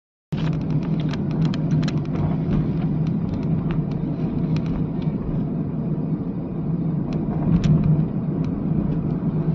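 Car running with a steady engine and road rumble, with scattered light clicks and knocks throughout.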